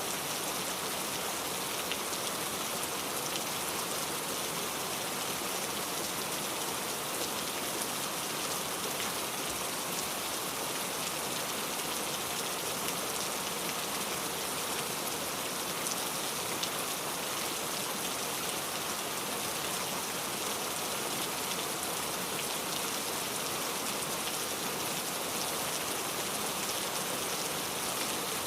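Steady rainfall: an even hiss of rain with fine scattered drop ticks, constant in level.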